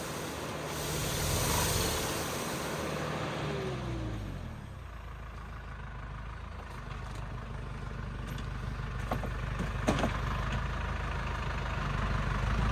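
Engine of a Sicma tree-shaking harvester rig winding down in pitch over the first few seconds, then idling with a steady low hum. A few sharp clicks come about nine to ten seconds in.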